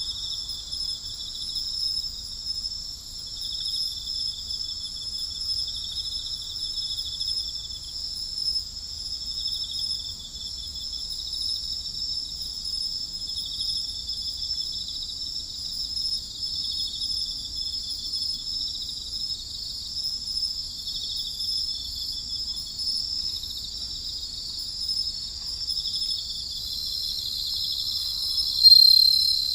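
Night-time insect chorus: many insects trilling together in a steady, high-pitched, pulsing wash, with one call swelling louder near the end.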